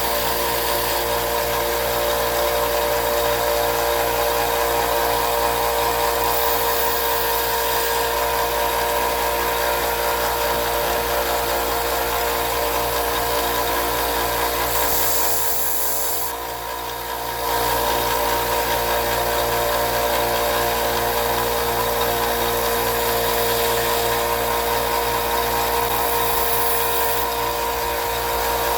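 Electric grinder running steadily, with a steady motor hum under the hiss of steel being ground as the broken tip of an old Case XX pocketknife blade is reprofiled. The sound dips briefly a little past halfway, then resumes.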